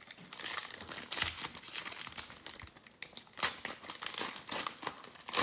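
Plastic trading-card pack wrapper being crinkled and torn open by hand: a dense, irregular crackling with sharp snaps throughout.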